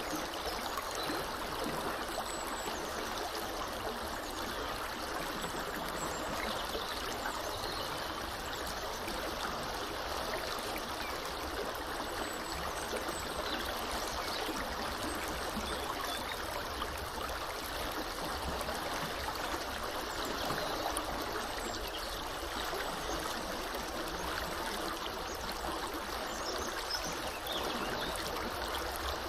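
Small river flowing steadily over a shallow bed, an even rushing and trickling of water.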